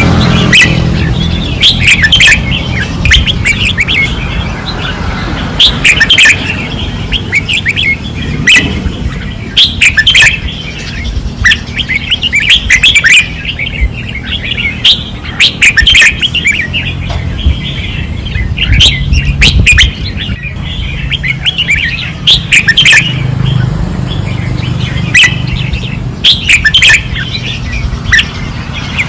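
Caged red-whiskered bulbuls singing fiercely: loud, short, chirpy phrases repeated over and over with little pause, over a steady low rumble.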